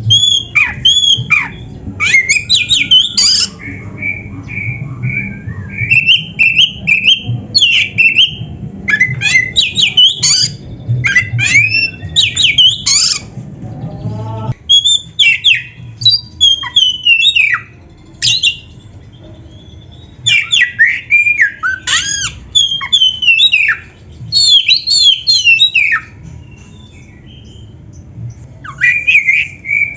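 Oriental magpie-robin (kacer) singing loud, varied song made of rapid whistles and chattering notes, rich in mimicked phrases. It sings in bursts broken by pauses of a couple of seconds.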